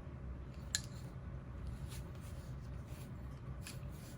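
Knitting needles and yarn being worked through cable stitches: faint clicks and rustling, the sharpest click about three-quarters of a second in, over a steady low hum.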